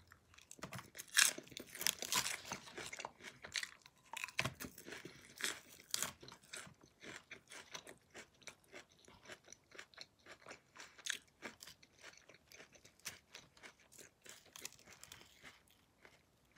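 A person chewing a mouthful of crisp lettuce salad close to the microphone: a quick run of crunches, louder in the first several seconds and fainter after.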